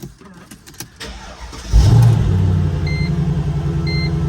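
Mercedes SLK55 AMG V8 cold-started: the starter cranks briefly, the engine catches with a loud flare about halfway in, then settles into a steady fast idle. A chime beeps about once a second near the end.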